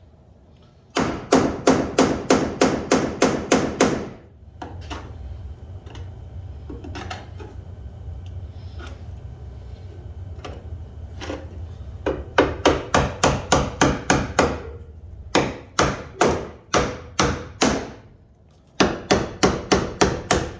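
Hammer blows in quick runs of about three strikes a second, four runs with pauses between. A steady low hum fills the longer pause in the middle.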